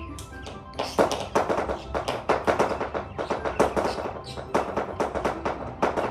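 Rapid, sharp percussive tapping begins about a second in and comes several times a second, over background music.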